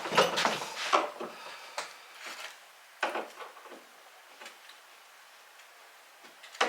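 A few sharp knocks and clicks of door hardware being worked: a deadbolt and strike plate on a wooden door being adjusted and tried. Most come in a cluster in the first second, with one more about three seconds in and another near the end.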